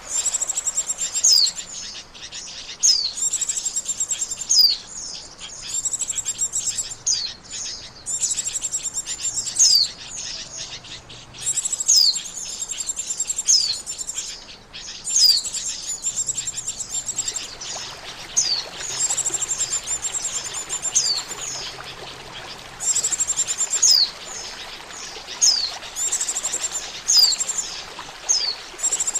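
White-eye (pleci) lure call: bursts of high, rapid twittering chatter with sharp downward-swept notes, each burst lasting one to two seconds and repeating almost without pause.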